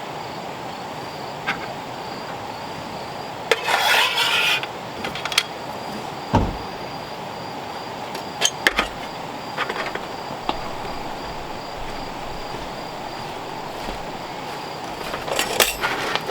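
Scattered clicks, clinks and knocks of camp gear being handled, busiest about four seconds in and again near the end, with a low thump in between. Behind them is a steady outdoor hiss and a faint, pulsing insect trill.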